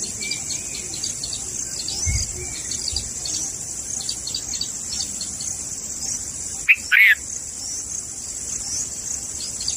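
Short high bird chirps repeating over a steady, high-pitched insect drone like crickets. About seven seconds in, one louder, brief bird call stands out.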